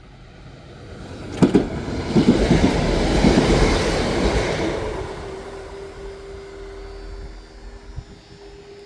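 A train passing over the level crossing: the noise swells, with a run of sharp wheel clicks over the rails, peaks and fades away. A steady tone sounds as the train noise dies down, then drops in pitch and stops near the end.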